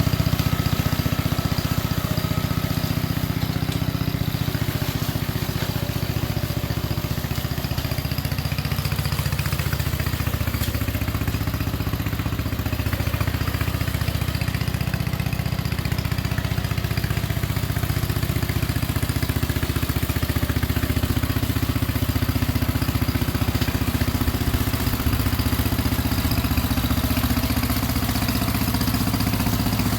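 1967 Unico riding tractor's 7 hp Briggs & Stratton single-cylinder engine running steadily while mowing with the deck engaged. Its note sags a little partway through and picks back up.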